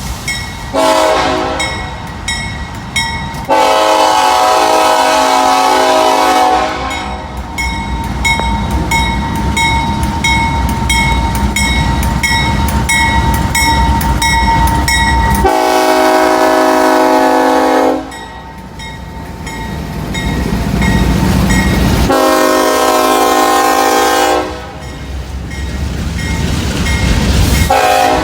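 Norfolk Southern freight locomotive sounding its multi-tone air horn for a grade crossing: a series of loud blasts of two to three seconds each, two close together near the start, then more spaced out, with another beginning near the end. Under the horn, the slow-moving train rumbles and a crossing bell rings steadily.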